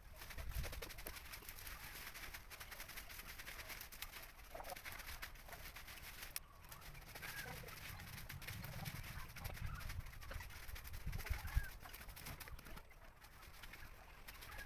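Faint bird calls, short chirps scattered throughout, over a low rumble, with a single dull thump about three quarters of the way through.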